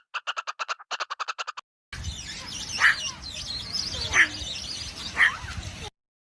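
A bird calling three times, each a short sharp call that drops in pitch, about a second apart, over the steady hiss of an outdoor recording. Before it, a quick run of rapid ticking pulses, about ten a second, stops about a second and a half in.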